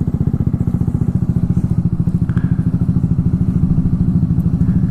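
Kawasaki Z125's small single-cylinder four-stroke engine running through a homemade custom exhaust, a steady, even beat at low speed.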